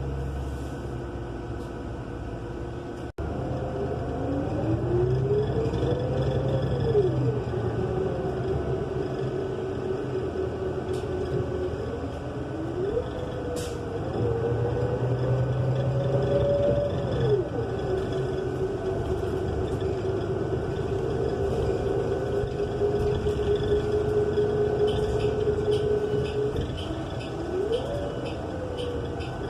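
Interior sound of a New Flyer XN35 bus's Cummins Westport L9N natural-gas engine and Allison transmission pulling away and cruising. A whine climbs in pitch and drops at each upshift, about three times, with steady running in between.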